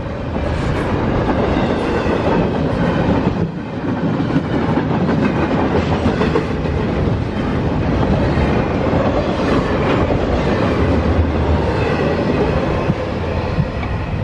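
Double-stack intermodal freight cars of a CSX train rolling past close by, with the steady noise of steel wheels running on the rails.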